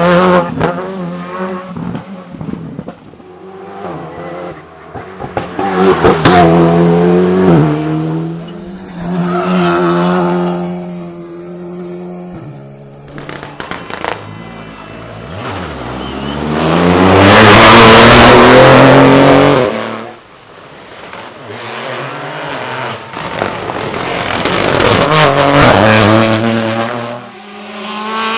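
Rally cars running hard on a stage, their engines revving up and dropping back again and again through gear changes and corners. The loudest pass comes about 18 seconds in.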